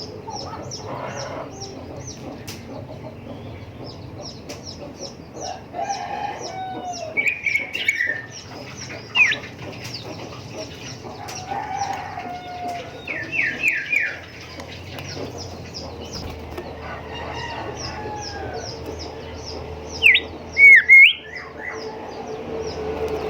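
Golden whistler singing loud whistled phrases, the loudest ending in a sharp upward whip near the end, over a continuous background of rapid, high repeated chirps.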